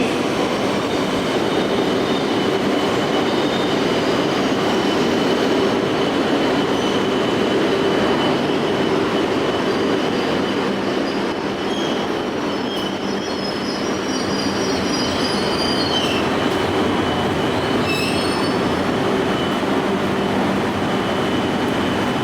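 Shinkansen train running slowly into the station, a steady rumble of wheels on rail with a thin, steady high wheel squeal.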